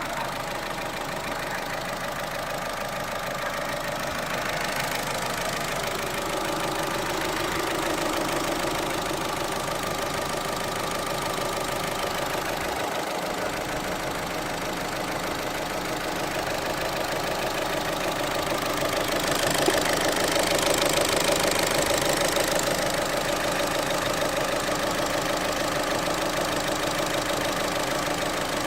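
Opel Astra H's Z18XER 1.8-litre four-cylinder petrol engine idling with the oil filler cap off, giving out a steady knocking noise through the open filler that the owner calls a bad noise and cannot explain. It grows somewhat louder about two-thirds of the way through.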